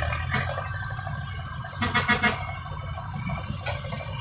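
Heavy dump truck diesel engine running steadily, with a brief louder pulsing burst about two seconds in.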